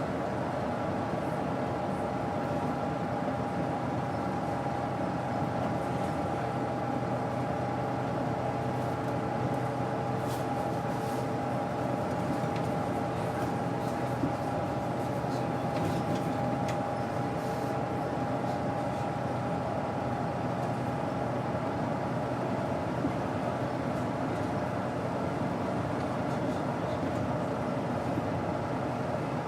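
Daewoo BS110CN natural-gas bus's Doosan GE12Ti turbocharged CNG engine running steadily, an even drone with a steady whine over it that fades about two-thirds of the way through. A few light clicks and rattles come through in the middle.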